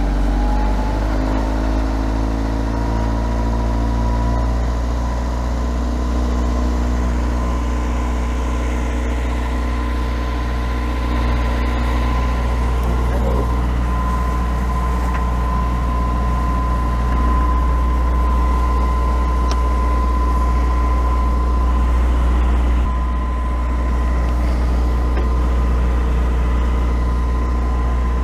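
Perkins 4-108 four-cylinder marine diesel engine running steadily. Its pitch rises slightly over the first two seconds, then holds even.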